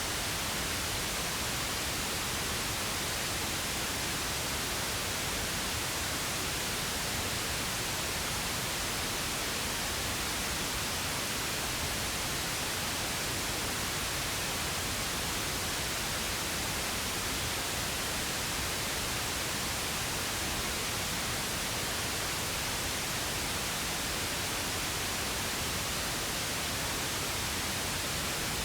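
Steady synthetic noise from a pink-noise track: an even, unchanging hiss with no events or changes.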